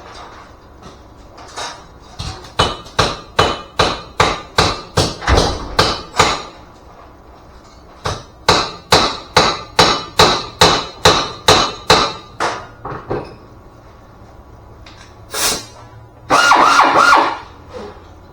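Hammer striking metal in two steady runs of about a dozen ringing blows each, roughly three a second, with a pause between. A short louder noise follows near the end.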